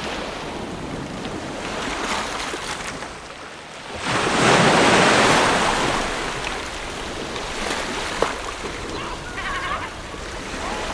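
Ocean waves washing on a shore, with one louder wave breaking about four seconds in and fading over the next two seconds.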